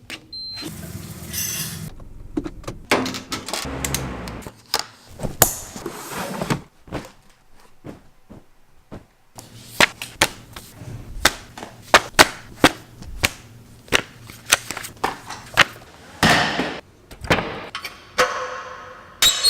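An edited run of self-recorded sound effects: sharp knocks and impacts, coming about two a second through the middle, set between a few longer rushing noises near the start and the end.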